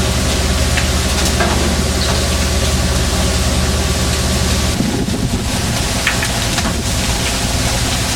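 A fishing boat's engine running steadily under a wash of wind and water noise. The low hum shifts about five seconds in.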